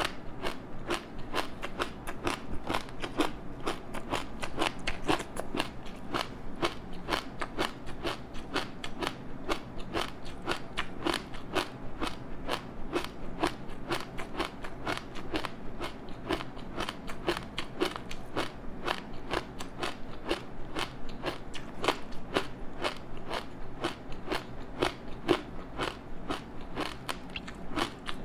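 Close-up chewing of a crispy seaweed-wrapped rice snack: a steady run of crisp crunches, several a second, as the brittle seaweed coating is bitten and chewed.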